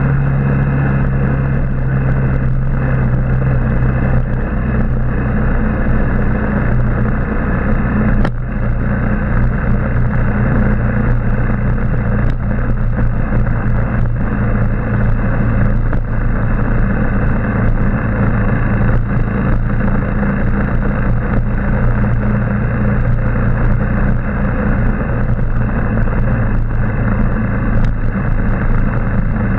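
Motorbike engine running steadily under way, with wind and road noise. The engine note drops a little about four to seven seconds in, and there is a single sharp knock about eight seconds in.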